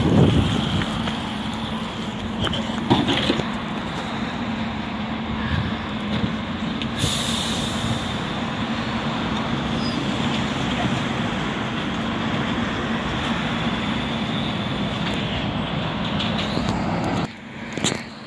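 Refuse collection truck running with a steady drone, a couple of knocks about three seconds in and a short hiss of air about seven seconds in. The sound drops away suddenly near the end.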